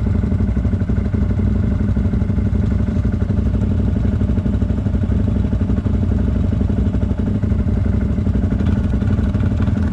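CFMoto 1000 ATV's V-twin engine running steadily at low, even revs on a steep, muddy descent, with some clatter from the machine.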